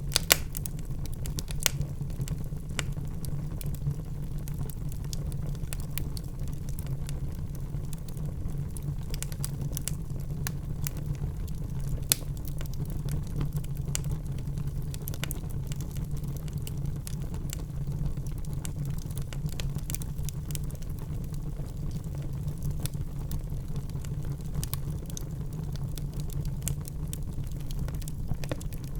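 Wood fire burning in a fireplace, crackling with frequent irregular pops over a low, steady rumble of flame; a couple of pops stand out louder, one right at the start and one about twelve seconds in.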